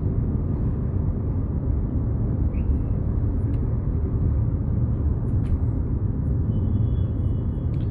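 Steady low rumble of road and engine noise inside a moving car's cabin at speed, with a faint high steady tone near the end.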